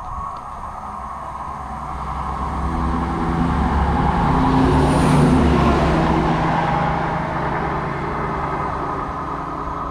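A train passing through a station, its engine and rolling noise swelling to a peak about five seconds in, then easing off.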